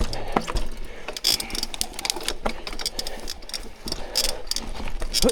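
Mountain bike riding over rough, rooty trail: the rear hub ratchets in rapid clicks and the chain and frame rattle, with scattered knocks as the tyres hit roots and bumps.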